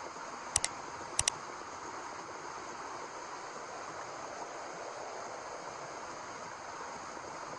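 Steady white-noise hiss meant to lull a baby to sleep, offered as the sound of the womb. Two quick double clicks cut through it in the first second and a half.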